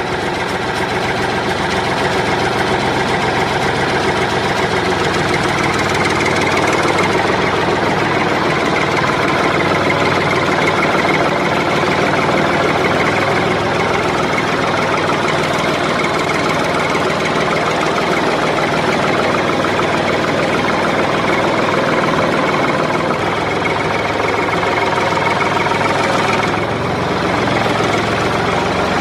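Small DC motor of a homemade model tractor water tanker running steadily with a whining hum, its pitch barely changing.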